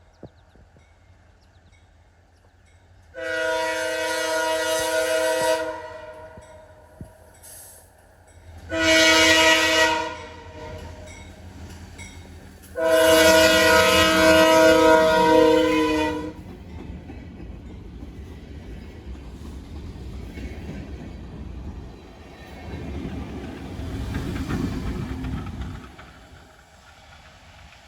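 Locomotive air horn sounding three blasts, long, short, then long, in several chords at once. Then a low rumble of the train rises and fades near the end.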